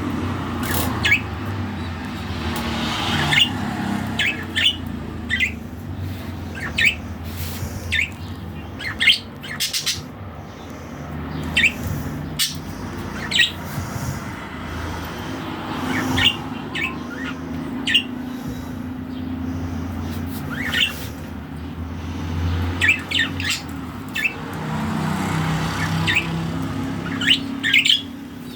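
Small birds chirping: many short, separate chirps at irregular intervals, over a steady low rumble of traffic or an engine.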